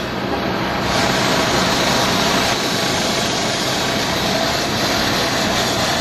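Loud, steady engine-like rumble with no let-up, dense noise spread across the whole range.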